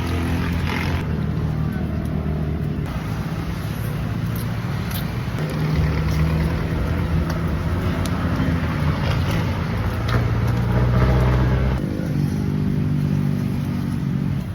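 A steady low motor hum whose pitch shifts a few times, with a few faint clicks over it.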